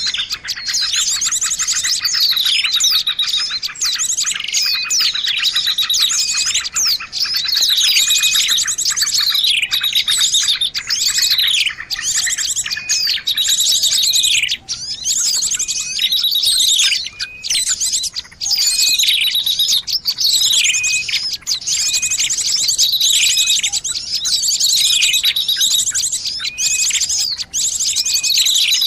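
Small songbirds chirping and trilling nonstop, with rapid high notes and repeated falling whistles overlapping one another: a bird-lure recording (suara pikat) meant to draw small birds in.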